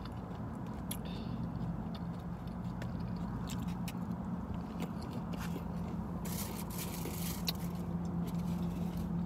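Close-up eating sounds: a bite into a fried veggie egg roll and chewing, with scattered small crunches and clicks. A rustle of paper food wrapping comes about six seconds in. Underneath is a steady low hum inside the car's cabin.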